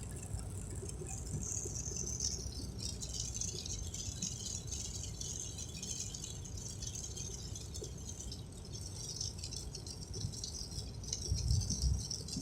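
Steady rain pattering, a dense fine crackle of drops. A low rumble comes in near the end.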